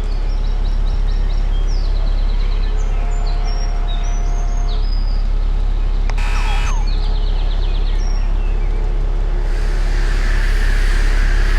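A steady low rumble with birds chirping in short repeated trills over it; a brief falling-pitched sound about six seconds in, and a steady hiss comes in near the end.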